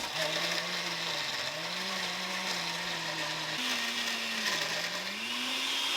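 Electric blender running, blending a mango smoothie with ice. The motor's pitch sags and recovers a few times as the load shifts, and it stops abruptly at the end.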